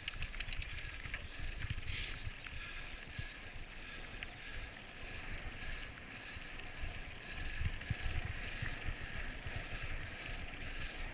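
Wind buffeting the microphone in an uneven low rumble over a steady high hiss, with a quick run of clicks in the first second.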